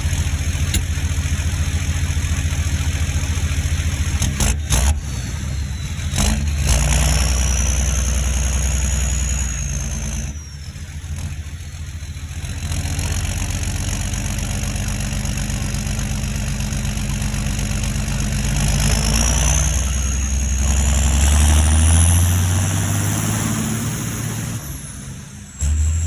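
John Deere 7530 Premium tractor's six-cylinder turbo-diesel running on the road, with a high turbo whistle that climbs as the engine pulls and falls away as the throttle eases, twice. The engine note drops back briefly about ten seconds in and again near the end.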